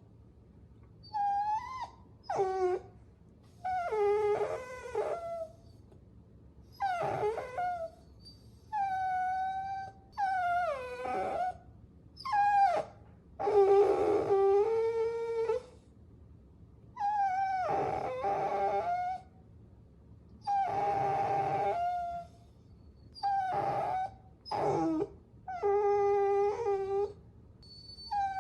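Puppies whining: a string of high-pitched cries, each up to about two seconds long with short pauses between, several sliding down in pitch at the end. At times two cries overlap at different pitches.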